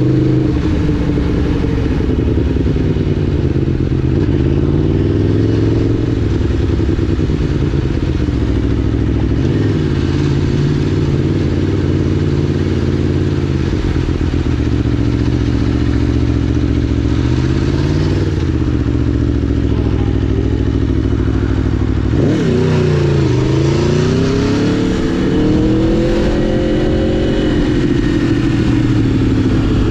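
2011 Aprilia Tuono V4 1000's V4 engine running under way, its revs rising and falling again and again as the bike speeds up and slows. A little past two-thirds through the revs drop sharply and then climb back up.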